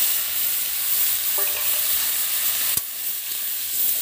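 Cauliflower and soaked peas frying in spiced oil in a metal karahi, sizzling steadily while a metal spatula stirs and scrapes them around the pan. A single sharp knock comes just before three seconds in.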